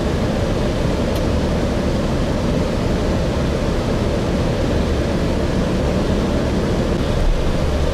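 Steady drone of a Gillig Phantom transit bus, Voith-transmission model, heard from inside the cabin: diesel drivetrain and road noise as it runs, with a brief low bump near the end.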